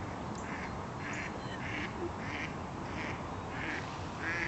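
Ducks quacking in a quick series of short, raspy calls, about two a second.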